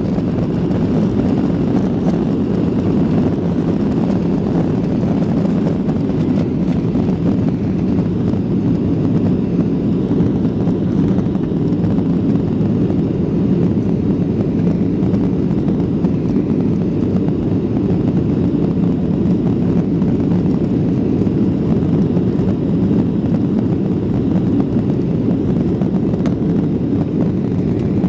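Boeing 737 jet airliner heard from inside the passenger cabin: a steady, even rumble of engine and air noise with no change in level.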